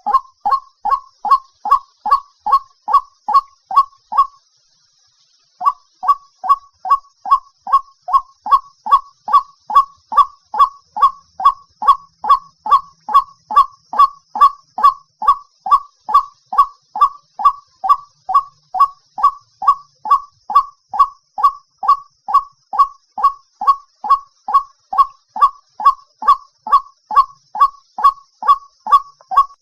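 White-breasted waterhen calling a repeated harsh 'kwak' note, a little over two a second, in a long even series broken once by a pause of over a second early on. It is a lure call used to draw in waterhens.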